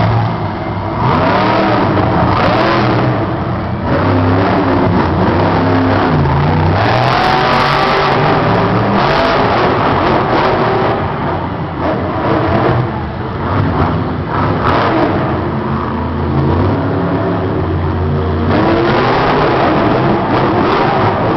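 Monster truck's supercharged V8 revving hard again and again in an arena, the engine pitch rising and falling with each throttle blip, loud throughout.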